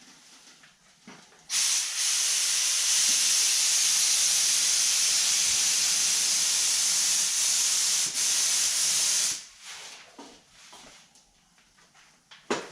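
Compressed-air paint spray gun spraying clear coat: a loud, steady hiss that starts abruptly about a second and a half in, runs for about eight seconds with one brief break, then stops. A faint knock follows near the end.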